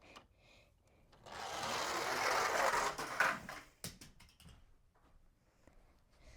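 A small 1/64 die-cast toy monster truck rolling down a homemade ramp track, its wheels rattling for about two seconds, then a couple of sharp clacks as it jumps off and lands.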